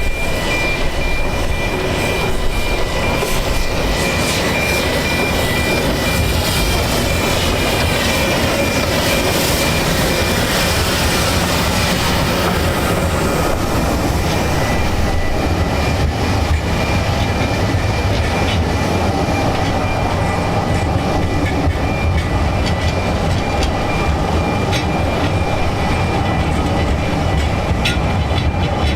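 Narrow-gauge train running on the rails: a steady rumble with wheel-on-rail clatter. A faint high ringing fades out over the first dozen seconds.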